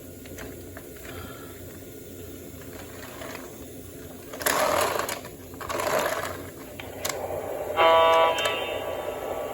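O gauge model train running on its track with a steady mechanical hum. Two rustling, clattering bursts come about halfway through, and near the end there is a short horn toot from the locomotive's sound system.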